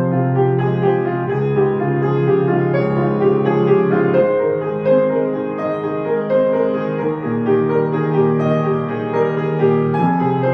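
Piano music: a melody over held chords, the notes ringing on with the sustain.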